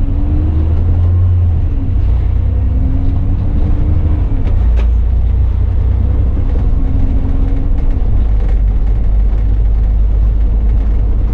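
Single-deck or double-deck bus engine and drivetrain running under way, a steady low rumble with a faint whine that rises several times as the bus pulls away and gathers speed, heard from on board.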